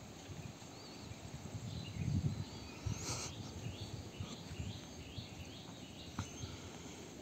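Birds calling outdoors: short whistled glides and a run of quick repeated chirps, over an irregular low rumble that is loudest about two seconds in. A brief sharp rising sound comes about three seconds in.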